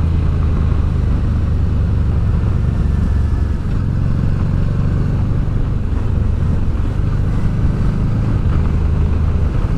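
Honda Deauville V-twin motorcycle engine running under way on a mountain descent, its low note shifting as the throttle changes, with wind noise over it.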